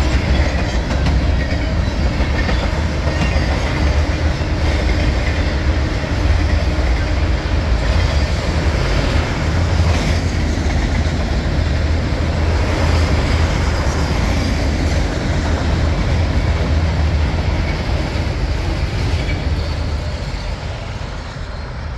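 Freight train cars, trailer-carrying spine cars and then autoracks, rolling past close by: a steady heavy rumble of steel wheels on the rails, easing off near the end as the last car goes by.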